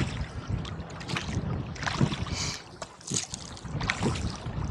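Gusty wind blowing across the microphone while a rowboat is rowed, with repeated splashes of water from the oar strokes and the chop against the hull.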